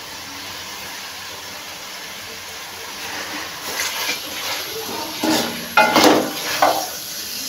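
Chicken gizzards, livers and chopped onion frying in oil in a karahi: a steady sizzling hiss. About halfway through, a wooden spoon starts stirring and scraping against the metal pan, with louder, uneven strokes near the end.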